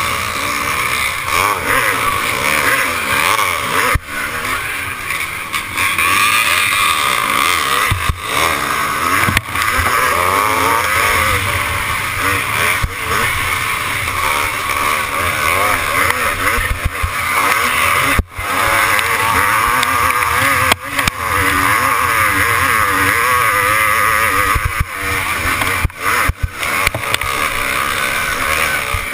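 Motocross bike engine revving hard and falling back again and again, its pitch rising and dropping through the gears. A heavy rush of noise runs under it throughout, with brief sharp drops in the sound every few seconds.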